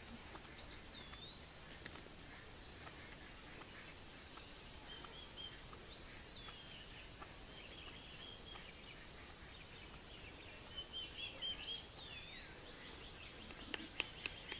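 Birds calling in the background: short whistled notes that swoop up and down, a few seconds apart, with a quick chattering run a little past the middle, over a steady hiss. A few sharp clicks sound near the end.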